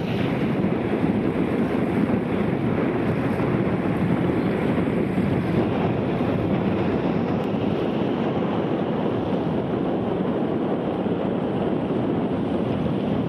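Strong steady wind buffeting the camera's microphone, a continuous rumbling rush with no break.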